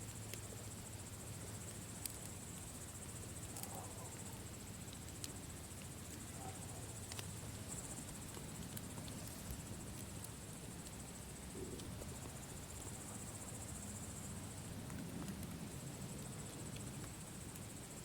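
Campfire crackling with scattered sharp pops, over a continuous high-pitched chirring of crickets.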